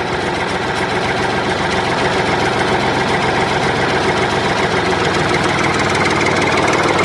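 An engine running steadily at idle, with a fast, even rattling pulse.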